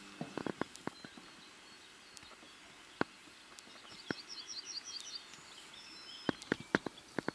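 Quiet pasture ambience: a small songbird sings a quick run of high chirps about four seconds in, followed by a short thin whistled note. Scattered light clicks and rustles sit under it, with one sharper click about three seconds in and a cluster of clicks near the end.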